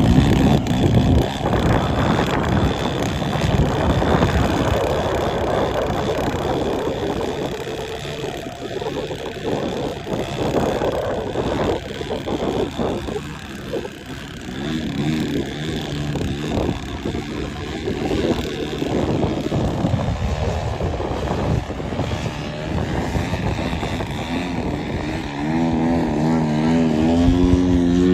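Desert Aircraft DA-120 twin-cylinder two-stroke gas engine and propeller of a large-scale RC aerobatic plane in flight. The engine note rises and falls with throttle and distance, fading in the middle and coming back loud and clear near the end as the plane passes close.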